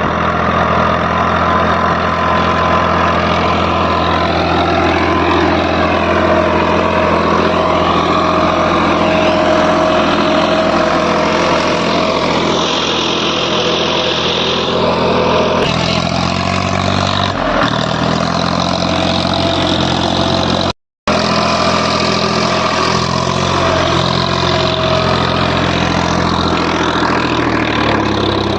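Massey Ferguson 8055 tractor's diesel engine running steadily near idle. Its note shifts slightly about halfway through, and the sound cuts out for a split second about three-quarters of the way in.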